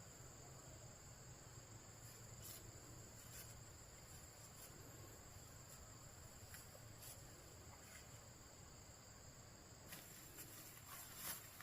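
Faint, steady high-pitched chirring of insects such as crickets, with scattered light clicks and a few louder rustles near the end.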